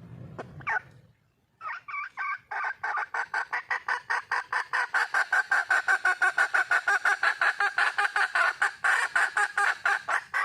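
Red junglefowl hen calling: a long, fast run of clucks, about six a second, growing louder over the first few seconds and breaking off suddenly at the end.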